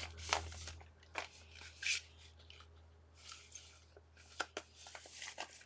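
Craft supplies being handled on a desk: scattered light rustles and clicks.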